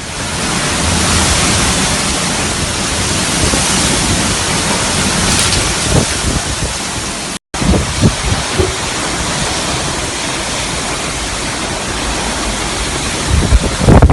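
Heavy storm rain and wind, a loud steady hiss, with gusts buffeting the microphone. The sound breaks off for an instant about seven seconds in.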